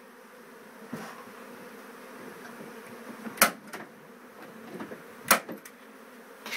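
Honeybees buzzing in a steady hum, broken by two sharp knocks about three and a half and five seconds in.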